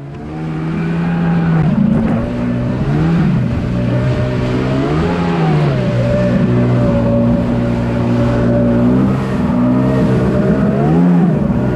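Jet ski engine running at speed, its pitch rising briefly and falling back several times as the revs surge and settle.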